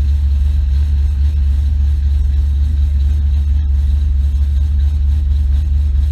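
Car engine idling steadily, heard close up from the car itself, a low, even rumble.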